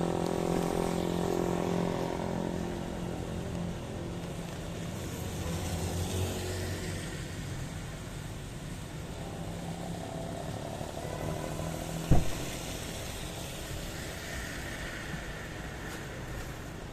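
A motor vehicle's engine hum, passing and fading over the first few seconds, then another vehicle going by with tyre hiss a few seconds later. A single sharp knock sounds about twelve seconds in.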